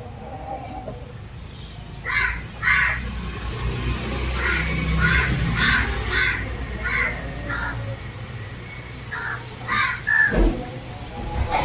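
Birds giving short, harsh, cawing calls again and again, a dozen or so in a few seconds, over a low steady rumble.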